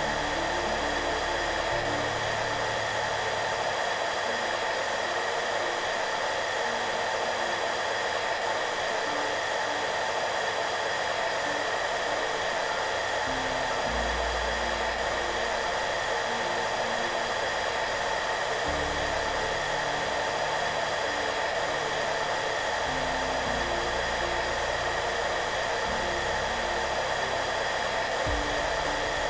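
Hair dryer running steadily, an even rushing hiss that never changes, with soft background music of slow, low held notes underneath.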